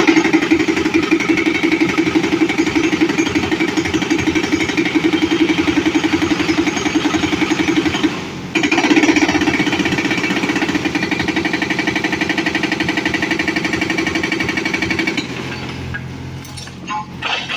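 Excavator-mounted hydraulic breaker hammering in a rapid, even rhythm over the excavator's engine. It breaks off briefly about eight seconds in and resumes. About fifteen seconds in it stops, leaving the engine running, with a few knocks near the end.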